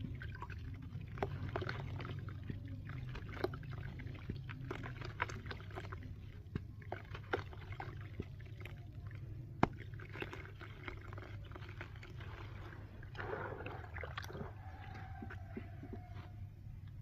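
Chunks of dry, gritty cement being crumbled and crushed, giving irregular sharp crunches and crackles over a steady low hum.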